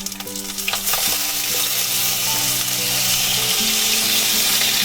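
Torn tomatoes and scrambled egg sizzling in hot oil in a pan while being stirred; the sizzle grows louder about a second in and then holds steady.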